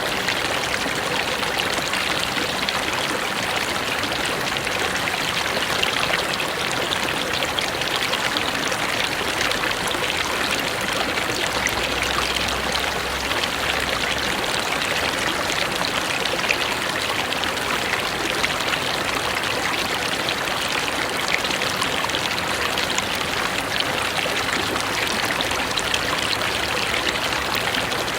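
Forest river flowing, a steady unbroken rush of water.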